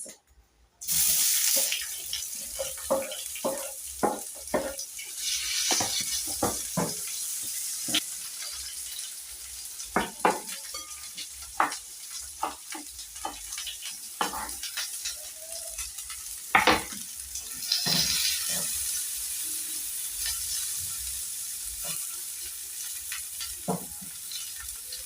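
Sliced onions tipped into hot cooking oil in a pan start sizzling suddenly about a second in and keep frying steadily. Repeated short knocks and scrapes of a utensil against the pan come as the onions are stirred.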